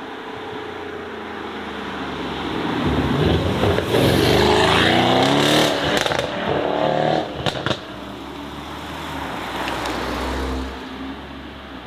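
A performance car accelerating hard past, its engine revving up, dropping briefly as it shifts and revving up again, with a few sharp cracks from the exhaust about seven and a half seconds in, then fading as it pulls away.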